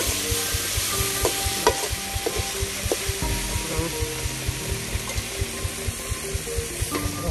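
Food sizzling as it fries in a cooking pan while it is stirred, with a few sharp knocks along the way. A rapid, even low pulsing runs underneath.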